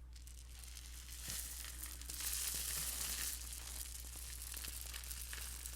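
Homemade rain stick being tilted close to the microphone: its loose fill trickles down the tube with a soft rain-like hiss that swells about two seconds in, then fades a little.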